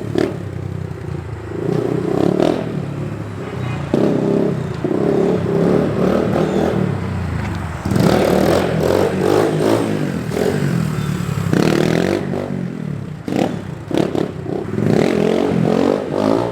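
SSR 150 dirt bike's single-cylinder four-stroke engine revving in repeated surges, the throttle opened hard and eased off again and again as the rider pops the front wheel up for wheelies.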